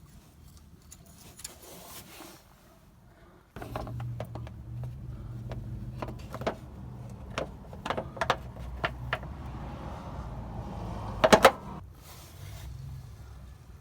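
A car engine runs with a steady low hum for about eight seconds, with irregular sharp clicks and knocks over it and a loud cluster of clicks near the end, then cuts off suddenly.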